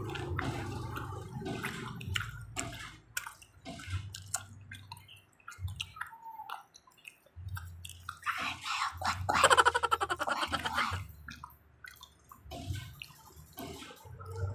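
Close-miked chewing and wet mouth sounds of people eating, with many small clicks and smacks. About two-thirds through, a louder wet sucking sound lasts about two seconds.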